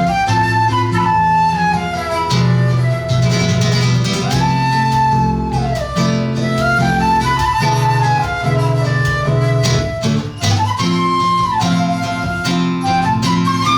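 Flute and seven-string guitar duo playing live: a flute melody moving up and down over plucked guitar chords and bass lines.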